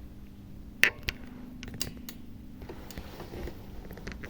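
Small hard clicks and taps from handling a tablet's internal parts during repair: one sharp click about a second in, then a few fainter ones, over a low steady hum.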